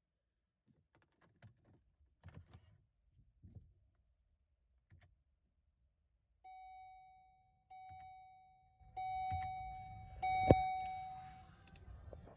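Keys jingle faintly, then a car's dashboard chime rings out three times, each tone fading away. A low hum comes on with the third chime, and a single sharp click follows, typical of a key being turned in a 2008 Volvo XC70 that will not start.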